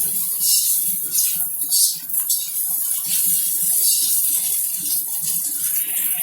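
Nasi goreng (fried rice) sizzling steadily in a hot pan in the last moments of frying, just as it is done.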